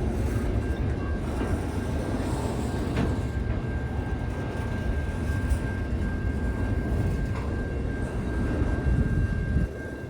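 A train running with a steady low rumble and a thin, steady high tone held over it; the rumble drops off suddenly near the end.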